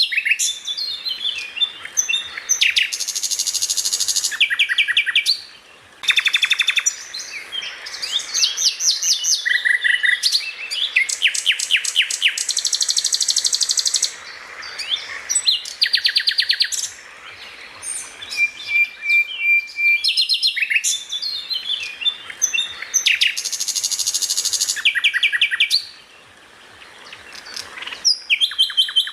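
Songbird singing loud, fast and varied: rapid trills, quick repeated notes and short held whistles, with brief pauses between bursts.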